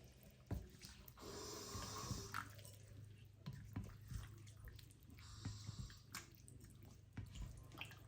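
Chicken pieces being mixed with a soy sauce and spice marinade in a bowl: faint wet squishing and sloshing with scattered small clicks.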